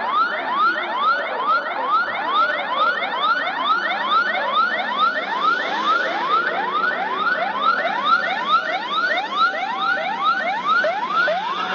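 Electronic siren sounding a rapid yelp: rising sweeps repeated about three times a second, with a second, steadier wail joining near the end.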